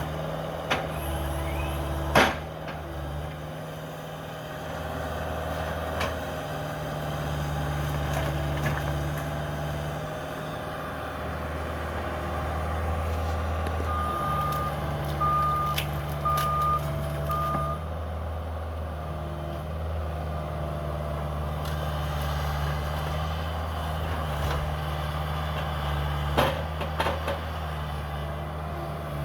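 Cat 305 mini excavator's diesel engine running, its note rising and falling with the load, while debris clanks and knocks sharply now and then, loudest about two seconds in. About halfway through a backup alarm gives four short beeps.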